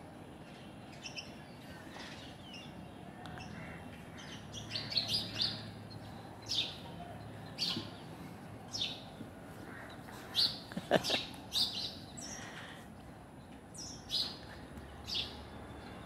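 Small birds chirping: many short, high chirps, singly and in quick runs, the loudest about eleven seconds in.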